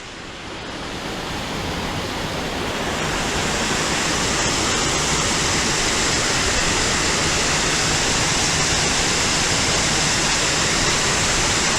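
Waterfall rushing: a steady wash of falling water that grows louder over the first few seconds and then holds even.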